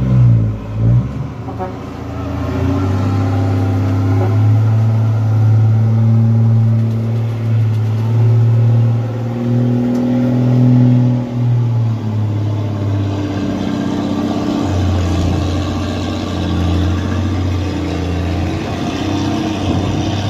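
Heavy truck's diesel engine working hard under load, its note rising and falling as it is revved on a steep loading ramp, with a brief dip about twelve seconds in.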